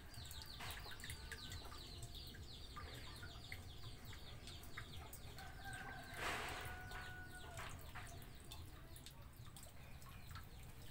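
Birds calling: a fast run of short, high, falling chirps in the first two seconds, scattered calls after, and one call held at a steady pitch for about two seconds from around the middle, with a short burst of noise about six seconds in.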